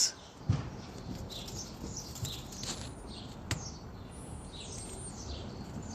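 Birds chirping: many short, high chirps with a couple of thin whistles sliding in pitch near the middle, plus two sharp clicks, about half a second in and about three and a half seconds in.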